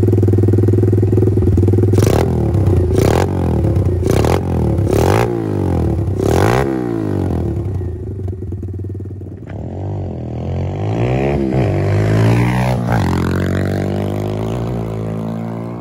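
125cc pit bike engine idling, then blipped five times in quick succession. After a short dip it revs in a longer pull, the pitch climbing, dropping sharply about 13 seconds in, then climbing again.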